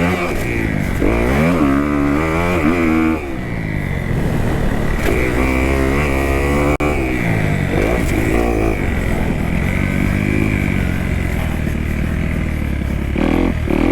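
2018 Kawasaki KX250F's four-stroke single-cylinder engine being ridden hard, its pitch repeatedly rising and falling as the throttle is opened and closed through the track section.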